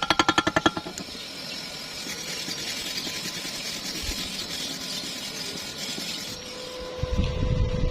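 Stick-welding arc crackling and hissing steadily after a brief rapid pulsing at the start. A steady hum comes in near the end, with a few low thumps.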